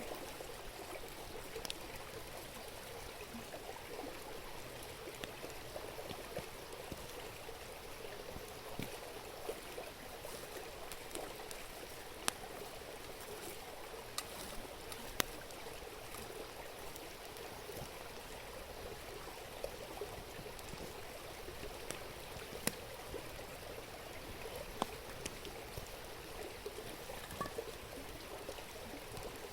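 A river murmuring steadily, with sharp crackles and pops from a campfire now and then.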